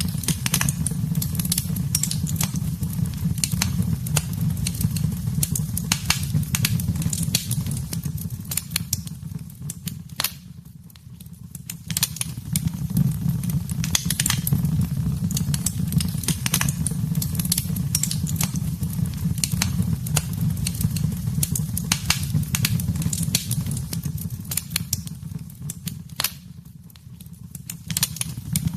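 Wood fire in a fireplace crackling and popping, with irregular sharp snaps over a low steady rumble of the flames. The sound dips and thins out briefly twice, about ten seconds in and again near the end.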